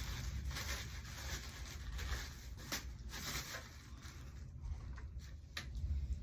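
Clothing or packaging being handled: irregular rustling and rubbing with a few short sharp clicks.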